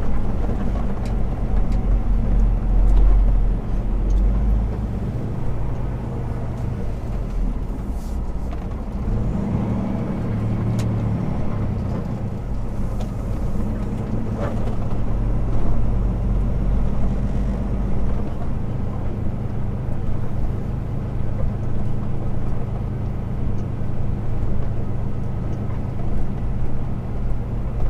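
A Kenworth T680 semi truck's diesel engine running at low speed, heard from inside the cab: a steady low drone that rises briefly about ten seconds in.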